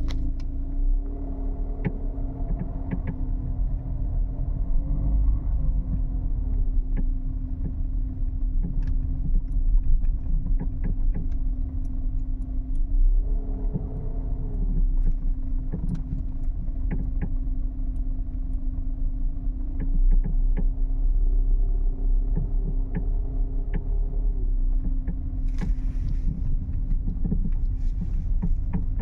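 A 2014 Peugeot 308 SW on the move: steady road and engine rumble, with many short clicks and knocks scattered through it, the unexplained noise that the owner traces to the suspension.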